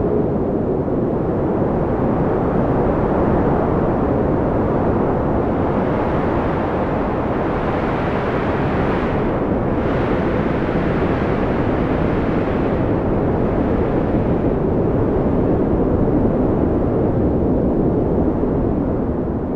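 Wind blowing as a steady, deep rushing noise with a faint wavering whistle, swelling into a stronger gust about halfway through.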